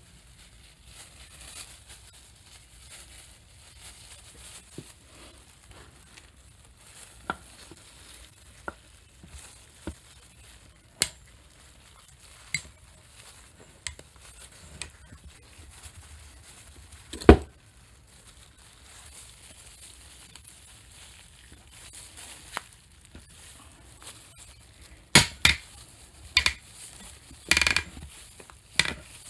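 Metal parts and hand tools clicking, knocking and clanking as a bearing puller is fitted to the motor armature of a high-speed cut-off saw to pull off its bearing. There are scattered light clicks, one loud knock about halfway through, and a run of loud ringing metal clanks near the end.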